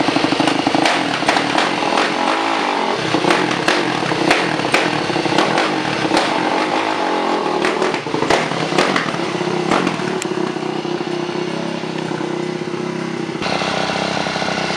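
Yamaha YZ450 single-cylinder four-stroke dirt bike engine running through a freshly repacked Pro Circuit T-4 slip-on muffler. It is revved up and down with sharp pops from the exhaust, then settles to a steadier run near the end.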